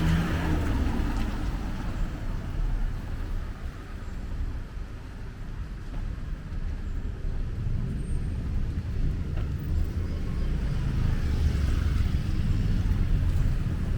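Street traffic: cars passing with a steady low engine and tyre rumble that grows louder near the end.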